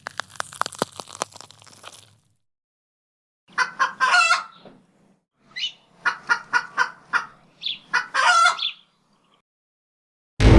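A stick of celery snapping and crackling for about two seconds, then a group of hens clucking in short separate calls with a few longer squawks. A loud horn blast starts just at the end.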